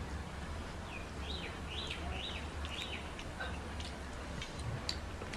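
A bird chirping a quick series of about five high notes in the background, over a low steady hum, with a few faint clicks.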